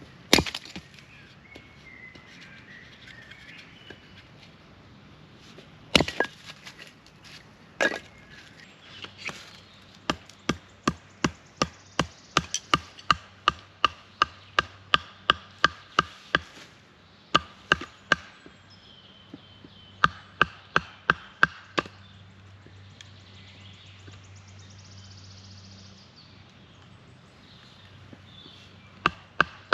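Wood being chopped with a hand blade: a few heavy blows, then runs of quick, lighter strokes at about three a second. Faint bird chirps sound between the runs.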